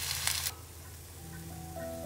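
Food sizzling and crackling as it fries in a pan, cut off suddenly about half a second in, followed by soft background music of held low notes with a slow melody coming in.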